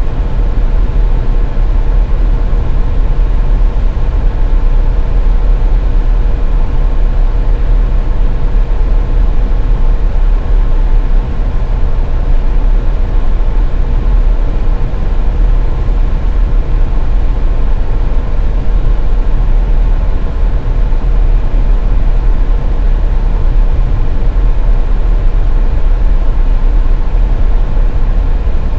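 Car driving in snow: a steady low rumble of engine and tyre noise, with a faint steady whine above it.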